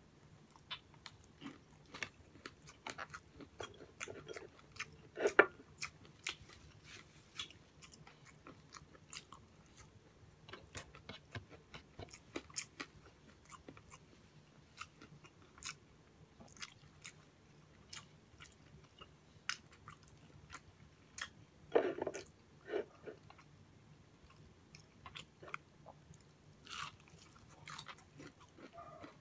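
Close-up chewing and biting of a crumb-coated fried pork chop, with many small crunches and mouth clicks. There are louder crunches about five seconds in and again around twenty-two seconds in.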